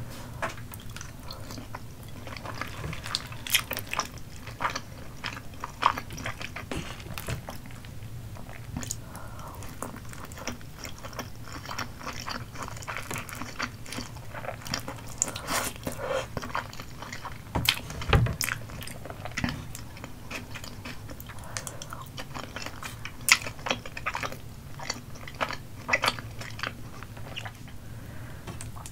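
Close-miked chewing and biting of a person eating cheesy spicy rice cakes (tteokbokki) and crab: wet mouth sounds with many short smacks and clicks throughout.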